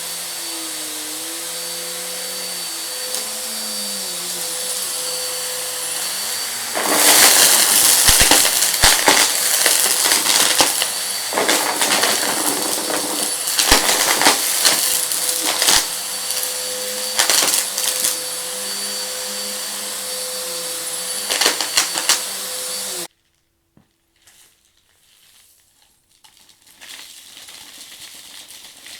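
Vacuum cleaner running steadily with a whine and a wavering hum. From about seven seconds in come loud rattling, crackling stretches as crunchy debris is sucked up off the rug. About three-quarters of the way through the motor cuts off abruptly, leaving near quiet with a few faint clicks.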